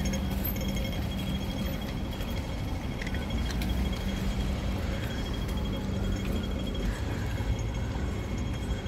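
Hong Kong Light Rail Phase 5 train standing at a stop, its onboard equipment giving a steady low hum over the street noise; the hum fades about seven seconds in.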